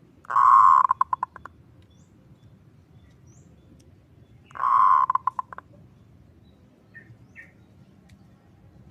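Zebra dove (perkutut) singing twice, a few seconds apart. Each song is a loud held coo followed by a quick stutter of short notes that fades out. Faint short chirps come near the end.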